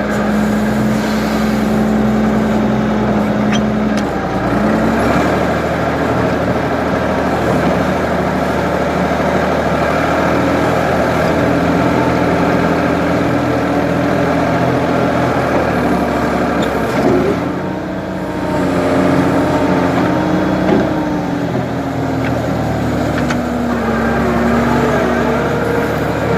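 Ford 550 backhoe's diesel engine running loud and steady under work, its engine speed stepping up about four seconds in and rising and falling a few times later on.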